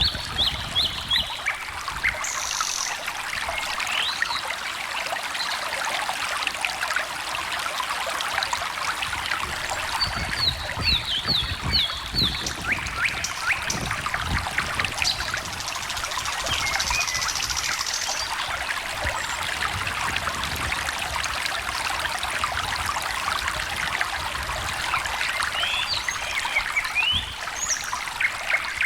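A small stream trickling and babbling over stones, with birds chirping and trilling over it in short phrases.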